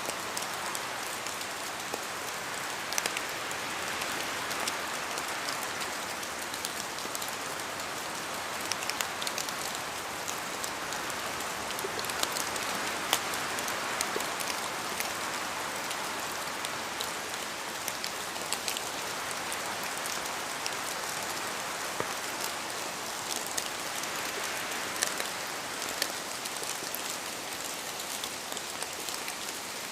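Steady rain in a forest, a dense patter with many sharp individual drops falling from the trees, swelling and easing gently every few seconds.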